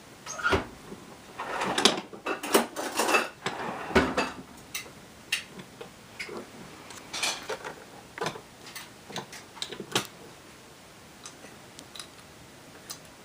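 Irregular clattering of hard objects being handled: a run of sharp clicks and knocks, thick for the first four seconds, then thinning out to scattered ticks.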